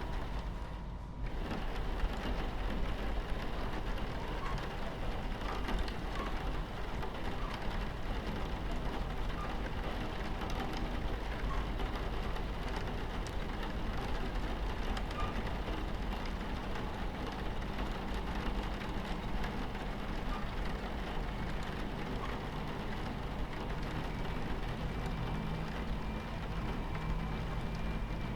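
Rain pattering on a train window over the low, steady rumble of a train running on its tracks.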